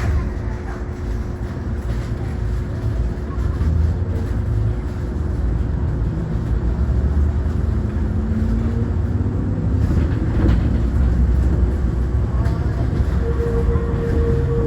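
Enoden electric train pulling away and running, heard from inside the car: a steady low rumble from the wheels and running gear. Motor tones climb slightly in pitch about two-thirds of the way through as it gathers speed.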